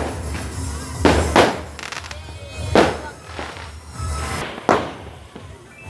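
Fireworks going off: about five sharp bangs, two of them close together about a second in, each trailing off.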